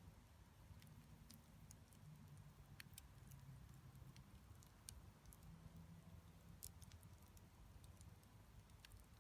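Faint wood-fire crackling: scattered sharp pops and ticks at irregular intervals from a burning campfire, over a low steady rumble.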